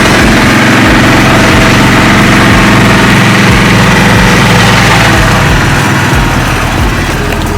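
A motor vehicle engine running loud and close at a steady speed, its loudness easing slightly about five seconds in.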